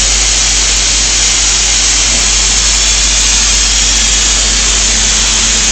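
DMU 65 machining centre running during a flange-milling job: a steady, loud hiss with a constant low hum underneath.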